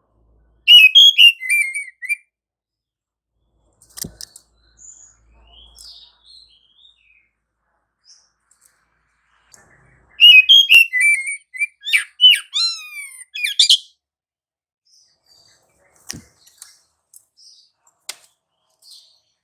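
Oriental magpie-robin (kacer) singing in two loud bursts of varied high whistles and chirps, the second a few seconds longer with quick falling sweeps. Faint calls and a few sharp clicks fill the pauses between.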